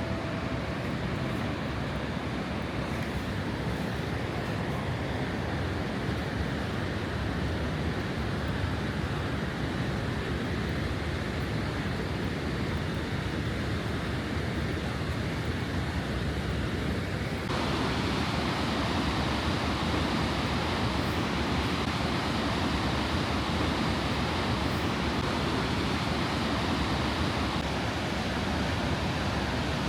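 Rushing creek water, a steady even rush; a little over halfway through it turns louder and brighter.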